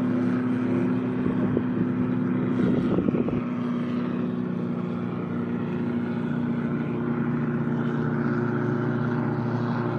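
Motorboat powered by a Mitsubishi L300 engine running at speed with a steady droning pitch, with a rougher, louder surge about two to three seconds in.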